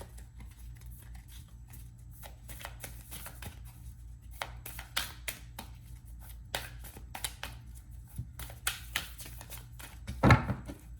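A deck of oracle cards being shuffled by hand: a run of short flicks and slaps of card edges, with one louder thump near the end, over a steady low hum.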